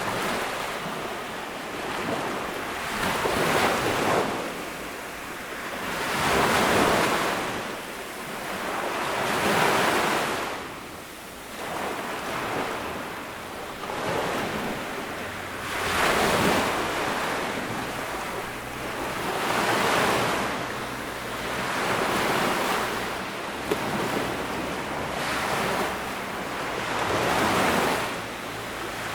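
Sea waves breaking and washing up on a sandy beach, each swell of surf rising and falling away, one every three to four seconds.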